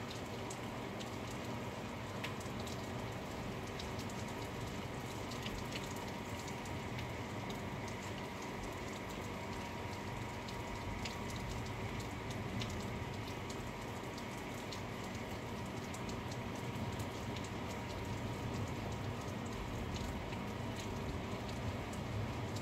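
Steady rain falling, with individual drops ticking sharply on a nearby surface.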